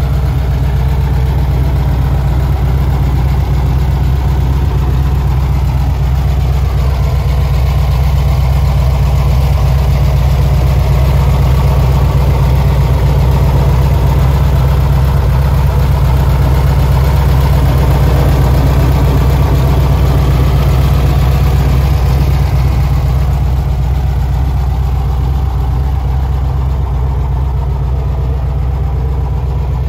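VW air-cooled flat-four engine idling steadily, heard loud and close from behind the car near the exhaust, a little louder midway through.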